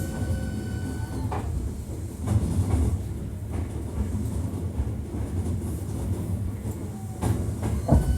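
Hankyu 1300 series electric commuter train running, heard from inside the car: a steady low rumble with wheel clacks over rail joints, a pair about two to three seconds in and another pair near the end.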